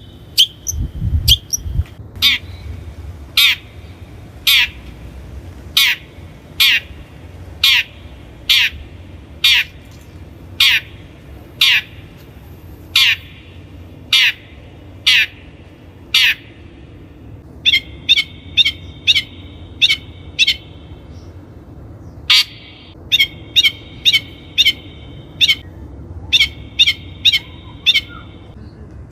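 Long-tailed shrike giving harsh, downward-sweeping calls about once a second. In the second half they come in quicker runs over a steady ringing tone.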